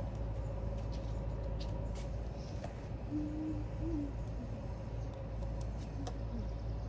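A bird's soft, low hooting calls, a few short ones spaced a second or two apart, over a steady low rumble.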